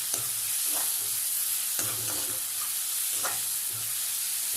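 Chopped onion and tomato frying in oil in a pan with a steady sizzle, stirred at intervals so the utensil scrapes the pan every half second or so as they sauté.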